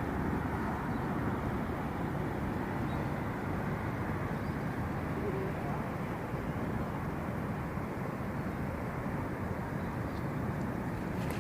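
Steady low rumbling background noise with no distinct events, the even hum of an outdoor scene.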